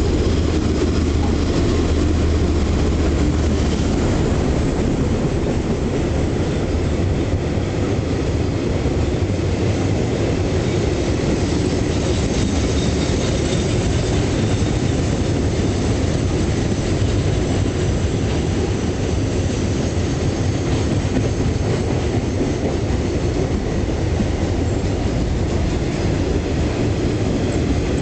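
Freight train rolling past, a steady low rumble of wagon wheels on the rails.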